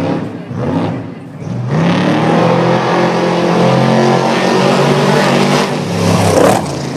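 A motor vehicle engine running loud and steady, coming up strongly about two seconds in and falling away near the end.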